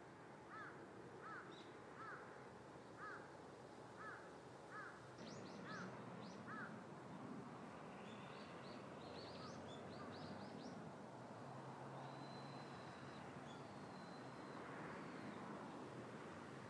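Faint outdoor bird calls: a bird calling about eight times at an even pace in the first five seconds, then quick, high chirps from small birds, over a soft steady background.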